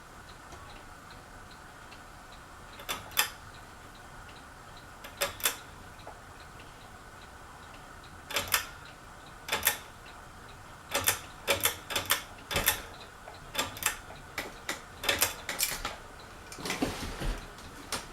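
Ceiling fan running with a faint steady hum, under sharp clicks that come singly and in pairs at first and more often and closer together from about eight seconds in.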